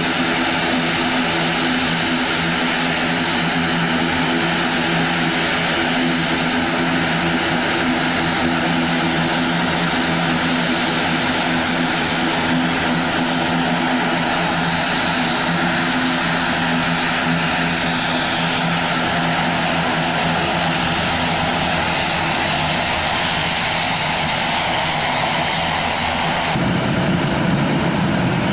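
Propeller airliner's engines running with a steady droning hum over a constant roar. The sound shifts abruptly near the end.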